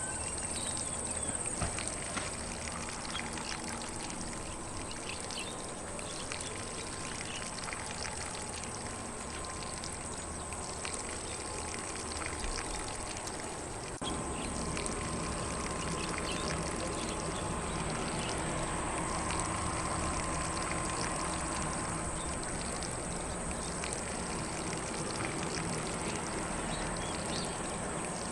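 Lawn sprinkler spraying water steadily onto grass, a continuous even hiss that gets a little louder about halfway through.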